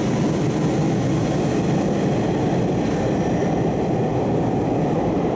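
Hanshin 8000 series electric train running on the track, a steady rumble of wheels on rail.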